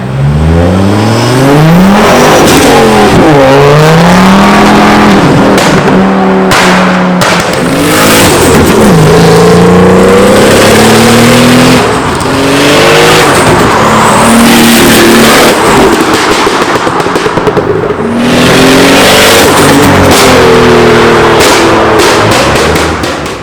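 A tuned car engine revving hard, its pitch climbing and dropping several times, very loud. Partway through it stutters in rapid pulses for a second or two.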